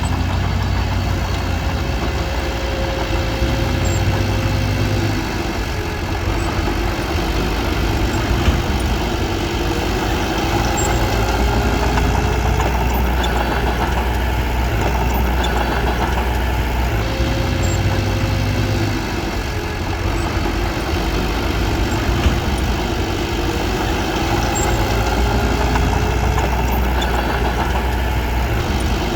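Diesel engine of a small crawler bulldozer running steadily under work, its engine note shifting slightly a couple of times.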